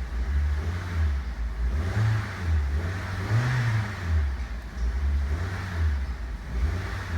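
2010 Honda Civic's four-cylinder engine being revved several times in short blips, pitch rising and falling each time. It revs up smoothly, a sign of a healthy engine.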